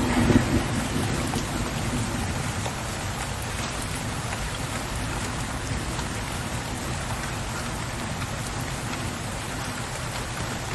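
Steady rain falling, with a low rumble of thunder that swells in the first second and fades away over the next couple of seconds.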